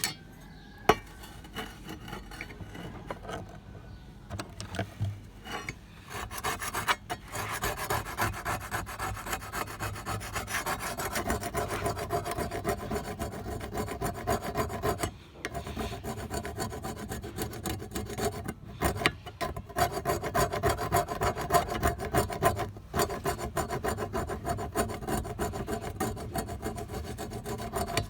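Rapid back-and-forth hand scraping strokes as the old trowel is worked with an abrasive, restoring it. The strokes are quieter at first and become steady from about six seconds in, with a few short breaks.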